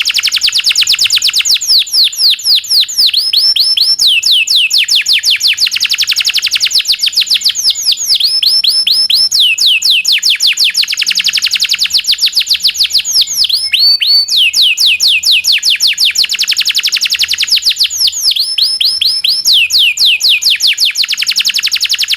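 Domestic canary singing vigorously: long rolling trills of rapid downward-sweeping notes alternate with slower chirps, in phrases of about four to five seconds that follow one another without a break.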